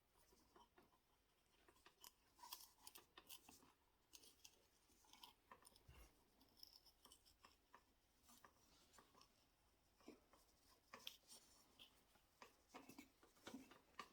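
Near silence with faint, scattered small clicks and scratches.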